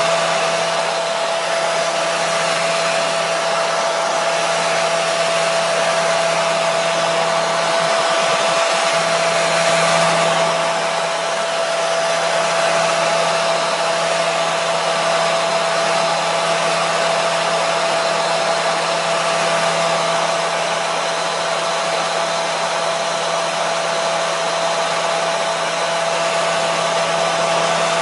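Hair dryer running steadily: a continuous whooshing airflow with a steady motor whine, played as white noise for soothing babies.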